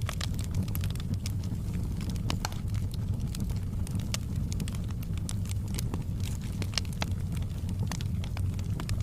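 Wood fire burning in a fireplace, with a steady low rumble and frequent sharp crackles and pops at irregular intervals.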